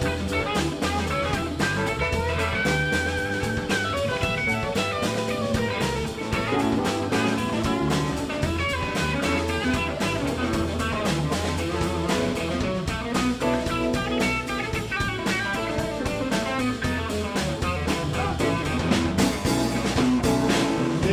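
Live blues band playing an instrumental break: a guitar lead, with a bent note about two seconds in, over bass and drum kit.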